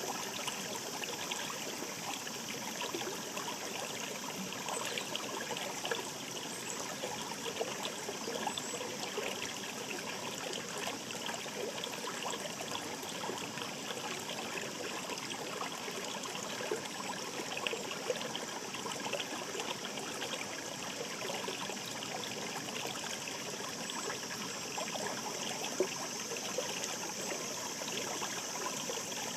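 A mountain river babbling over stones: a steady rush of water with many small splashes and gurgles.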